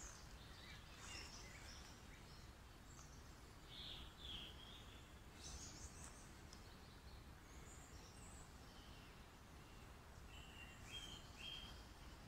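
Faint birdsong: scattered short chirps and calls over a low, steady background noise.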